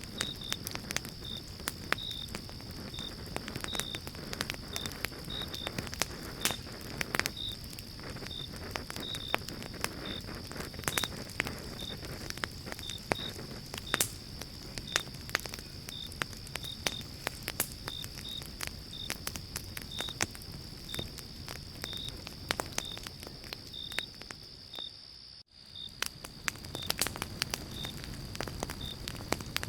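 Pine-log campfire burning with constant crackling and many sharp pops, over a steady hiss of the flames. A high, evenly repeated chirping runs alongside, about two chirps a second. The whole sound drops out for a moment near the end.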